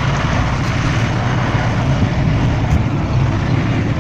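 MTZ-82 tractor's diesel engine running steadily under load while levelling ground.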